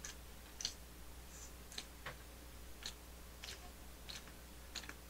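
Faint, wet mouth clicks of a man chewing a bite of mini burger with his mouth closed, in a steady chewing rhythm of about three clicks every two seconds.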